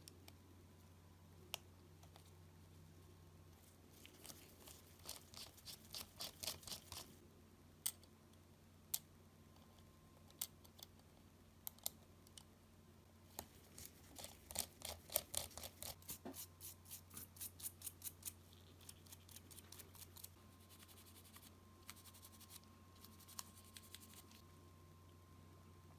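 Small hand tools clicking and ticking against the Nintendo Switch's small parts during repair. There are two runs of quick, evenly spaced ticks, a shorter one about four seconds in and a longer one from about thirteen seconds, with scattered single sharp clicks between, over a steady low hum.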